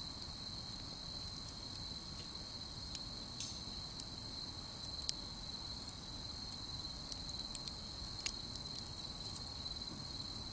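Crickets trilling in one steady, high, unbroken chorus, with a few sharp pops from the wood campfire, the loudest about halfway through and another near the end.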